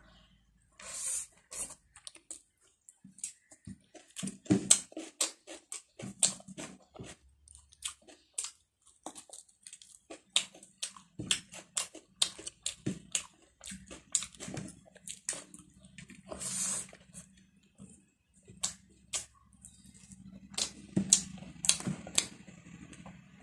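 Close-up chewing and mouth noises of a person eating rice and curry by hand: a steady run of wet clicks, lip smacks and small crunches.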